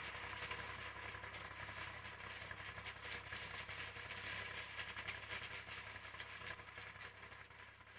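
IMT 539 tractor running steadily with a SIP Roto 135 forage harvester in corn: a low engine hum under a dense mechanical rattle and clatter, fading slightly near the end.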